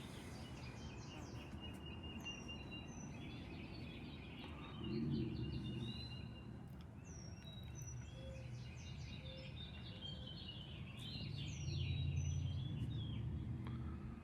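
Small birds chirping and twittering throughout, with short whistles that slide downward. Under them runs a low background rumble that swells briefly about five seconds in and again near the end.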